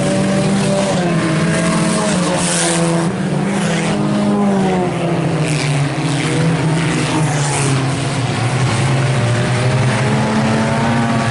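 A field of IMCA Sport Compact race cars racing in a pack, several four-cylinder engines running hard at once, their notes rising and falling as the cars pass and go through the turns.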